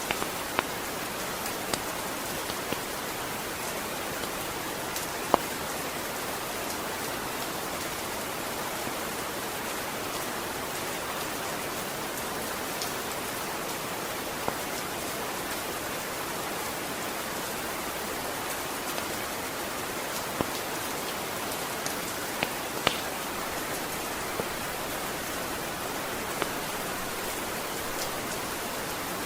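Steady rain falling, a continuous hiss, with scattered sharp ticks of single drops landing. The loudest tick comes about five seconds in.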